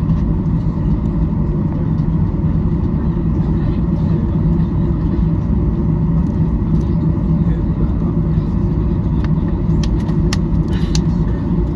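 Cabin noise of a Boeing 737-800 in motion: the steady, loud, low rumble of its CFM56 jet engines and airflow, heard from inside the passenger cabin. A few sharp clicks come near the end.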